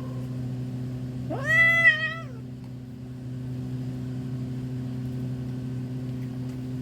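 A cat meows once, a single call about a second long that rises, holds and falls away, over a steady low hum.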